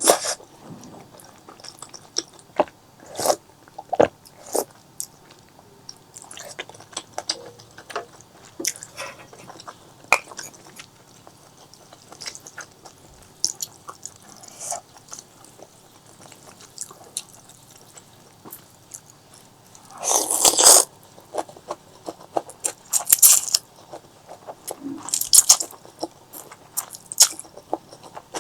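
Close-miked eating: biting, crunching and chewing, with many short wet clicks and smacks and a louder crunch about twenty seconds in.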